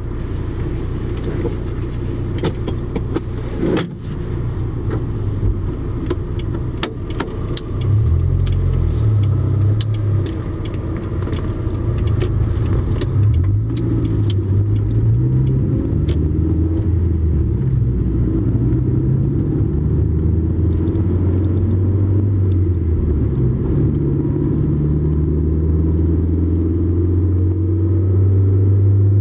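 Honda S2000 AP2's 2.2-litre inline-four engine with road noise, heard from inside the cabin as the car pulls away and drives on. Its note grows louder about eight seconds in, then rises and falls with acceleration and gear changes before steadying near the end. A few sharp clicks are heard in the first half.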